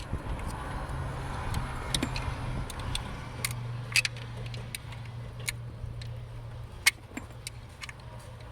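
A car engine runs with a steady low hum, while sharp metallic clinks and ticks come at irregular moments throughout.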